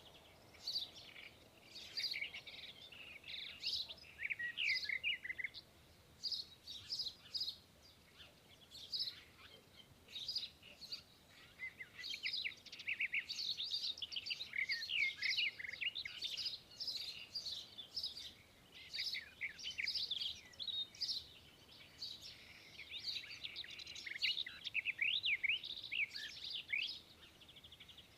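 Small birds chirping and twittering, many quick high chirps overlapping with short pauses.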